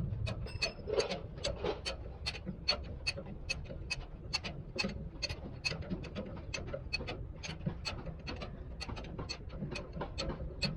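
Rhythmic mechanical clicking, about three sharp clicks a second, steady throughout, over a faint low rumble.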